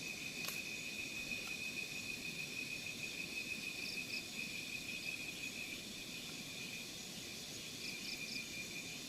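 Steady high-pitched insect chorus running without a break, with a few faint short chirps around the middle and near the end.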